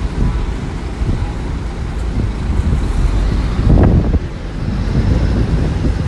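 Diesel engine of earthmoving machinery running as a continuous low rumble, swelling louder for a moment about four seconds in.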